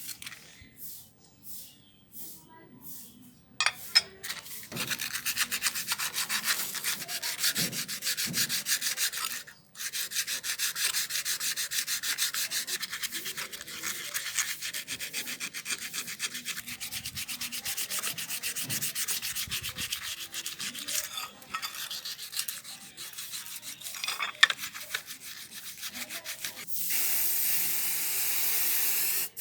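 Rusty motorcycle silencer being sanded by hand, with rapid back-and-forth scratchy strokes. Near the end the strokes stop and a steady spray-can hiss begins.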